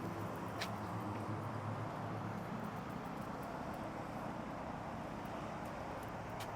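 Steady outdoor background noise with a low hum, broken by a couple of faint clicks.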